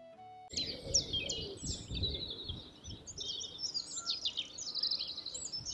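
Small birds chirping, many quick falling calls overlapping, starting suddenly about half a second in over a low wind-like rumble. The tail of background music stops just before.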